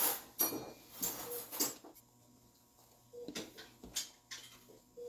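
Stainless steel surgical instruments clinking and clattering as they are handled and laid out on the instrument tray, a string of short irregular clicks, busier in the first two seconds.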